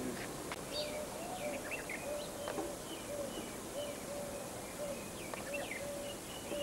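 Birds chirping and calling: scattered short, gliding high chirps over a short, even lower note repeated about twice a second.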